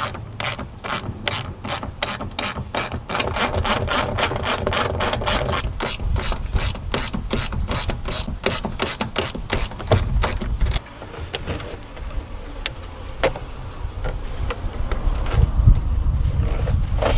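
Hand ratchet wrench clicking in a fast, even run of about four clicks a second, which stops about eleven seconds in, followed by a few fainter knocks.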